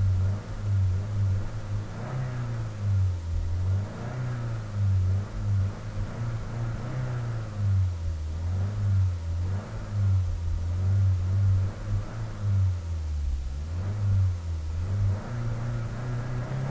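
Car engine being revved by pumping the accelerator pedal: repeated short blips, the engine note rising and falling about once a second.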